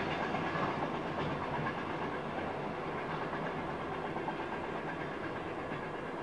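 Container freight train rolling away into the distance, its wagons rumbling on the rails and slowly fading.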